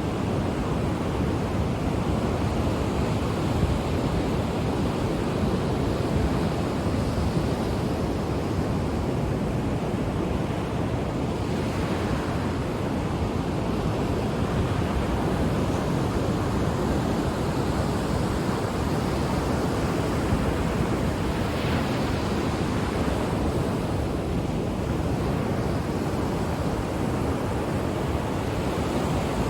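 Ocean waves washing onto a shore: a steady rush of surf that swells a little now and then as a wave comes in.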